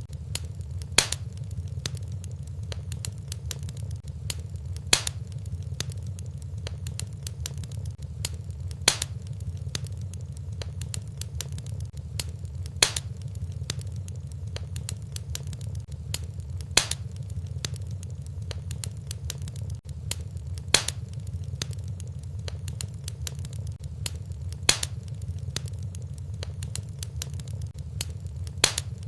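Fireplace fire burning: a steady low rumble under many small crackles, with a louder sharp pop about every four seconds.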